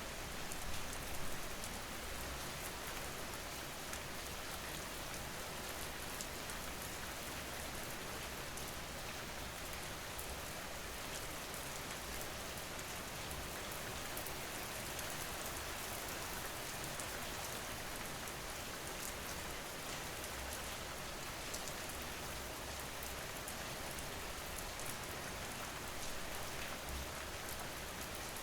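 Steady rain falling: a dense, even hiss with scattered fine drop patters, slightly louder for a moment about a second in.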